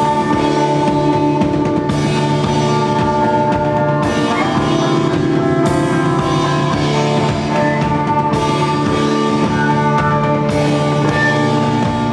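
Live band playing: a drum kit beating steadily under long held notes from the other instruments.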